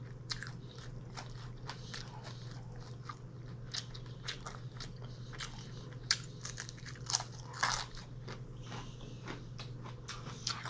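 A person chewing food close to the microphone, with many small crunchy clicks and a couple of louder crunches about seven seconds in, over a low steady hum.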